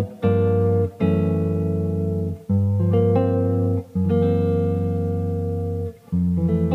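Fresher FRS SS-40 guitar, a Japanese-made early-1980s model, being played: chords struck and let ring for one to two seconds each, then stopped short before the next, five or so in turn.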